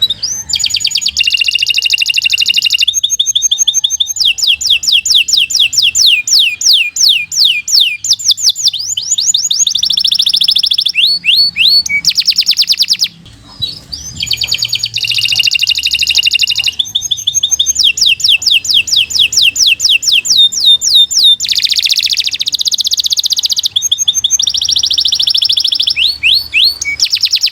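Domestic canary singing a long, fast song made of rapid trills. Each section is a run of quickly repeated high notes that switches to a new pattern every second or two, with a brief pause about halfway through.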